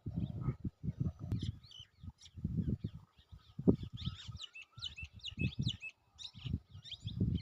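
Small birds chirping, many quick high calls overlapping and growing busier after the first second. Irregular low rumbling bursts, louder than the birds, come and go underneath.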